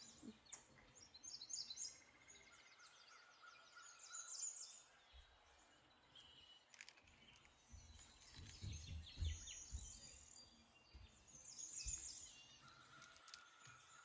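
Faint birdsong: repeated quick chirps and short trills, with a few soft low thumps about two-thirds of the way through.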